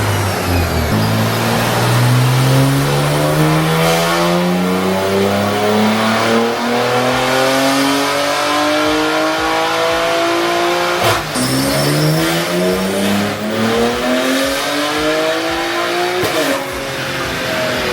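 BMW G80 M3's tuned twin-turbo S58 inline-six at full throttle on a chassis dyno, its pitch climbing steadily through a long pull. It shifts up with a sudden drop about two-thirds of the way in, climbs again, and shifts once more near the end.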